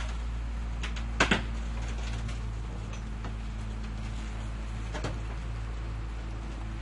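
Garbage truck engine idling with a steady low hum, with a loud double clank about a second in and a lighter knock around five seconds in.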